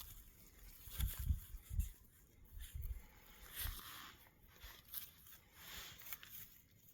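Faint irregular rustling with a few soft, dull thumps, the kind of handling or movement noise made by someone outdoors in the forest.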